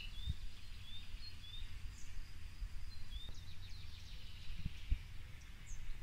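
Small birds chirping faintly, a few short scattered notes, over a steady low outdoor rumble.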